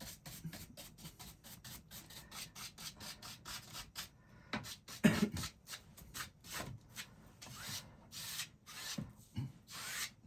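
Paintbrush scrubbing paint across a canvas in quick back-and-forth strokes, about four a second, turning to slower, longer strokes about four seconds in, with one louder bump about five seconds in.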